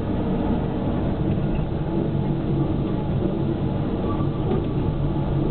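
Small park railway train running along the track, heard from on board: a steady, unbroken running noise of the engine and wheels.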